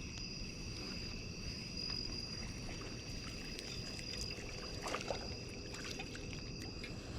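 Steady chorus of crickets holding two high, unbroken pitches over a low rushing background. A few faint clicks and a short scrape about five seconds in.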